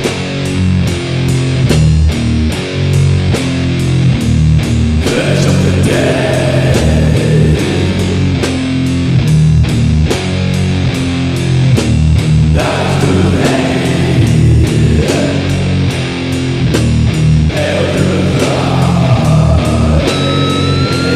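Heavy metal music: distorted electric guitars and bass play low, chugging riffs over steady drum hits. Near the end a high sustained note slides slowly upward.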